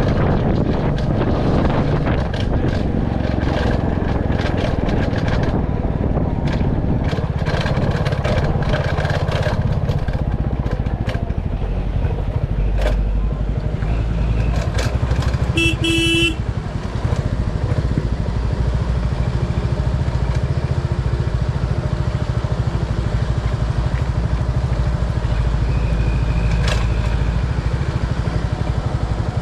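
Royal Enfield Classic 350's single-cylinder engine running steadily under way, with rattles and knocks through the first ten seconds or so. A short horn toot sounds about halfway through.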